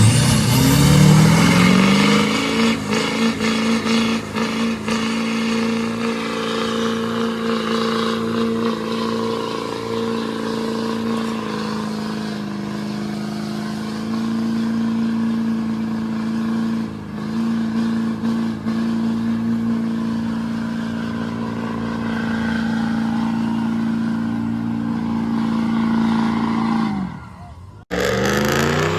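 Lifted pickup truck's engine revving up hard in a burnout, rising over the first couple of seconds and then held at high, nearly constant revs with a long noisy haze of spinning tyres. The revs drop off near the end, then the sound cuts abruptly to another engine revving up.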